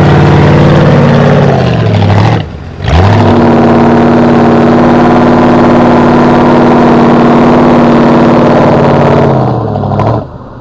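Off-road truck engine revving hard at high rpm, twice falling off sharply and then revving up again, as the truck struggles in a deep rut in a mud water hole.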